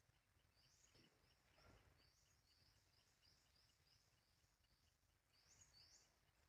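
Near silence, with a run of faint, short, high chirps repeating a few times a second.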